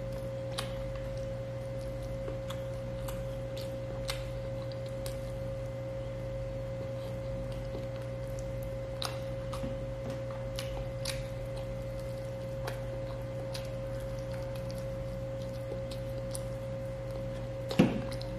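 Close-up eating sounds: a person chewing grilled chicken and rice eaten by hand, with scattered soft mouth clicks and smacks and one louder knock near the end, over a steady electrical-sounding hum with a constant tone.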